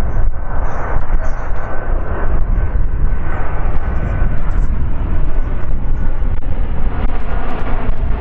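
Jet airliner engines giving a loud, steady roar, with a faint high whine that fades out about four seconds in.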